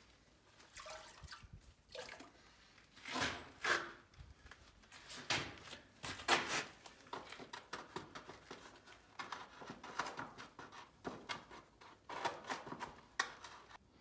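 Irregular knocks and scrapes mixed with water sounds, strongest about three seconds and about six seconds in.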